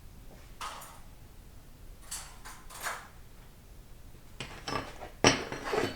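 Metal transmission parts being handled and set down on a workbench: a series of short clinks and knocks, busiest and loudest near the end.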